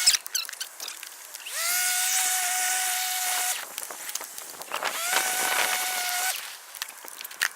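Ego Power Plus electric lawn mower motor whining: it spins up with a quick rising whine, runs steadily for about two seconds and cuts off, then starts up and runs again more briefly. Scattered clicks and knocks fall between the runs.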